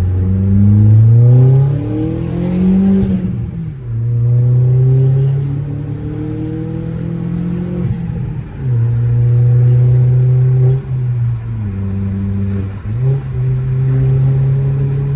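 Turbocharged Audi A4 engine running through a deleted muffler, pulling under acceleration: the note rises for about three seconds, drops at a gear change, then holds steady with a few short dips at later shifts.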